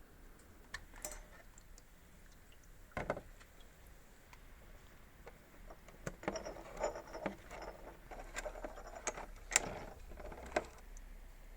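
Small parts being handled on a workbench: scattered light clicks and a sharper knock about three seconds in, then a busier run of rattling, tapping and knocking from about six seconds in.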